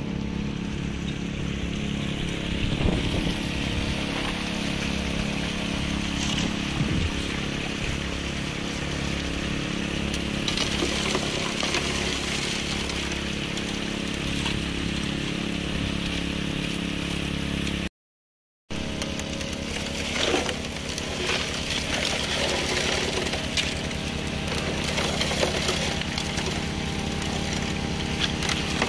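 Small petrol engine of a water pump running steadily, with water rushing through a gold sluice and hopper. The sound cuts out completely for under a second about two-thirds of the way in.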